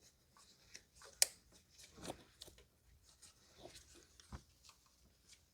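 Faint clicks and rustling of hands handling plastic engine parts and a bolt being started by hand, with one sharp click about a second in and a dull knock past four seconds.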